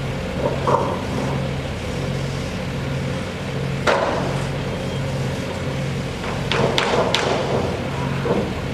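Construction machinery running with a low hum that pulses at a regular rhythm. A sharp knock comes about four seconds in, and a quick cluster of knocks and clicks follows a few seconds later.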